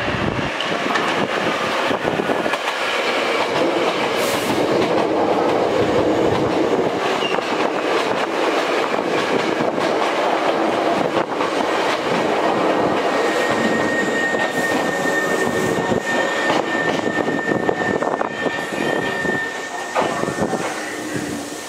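Hankyu 5300 series electric train running into the station at close range: a steady rumble with wheels clattering over the rail joints. A steady high squeal joins about two thirds of the way through and lasts several seconds as the train runs in.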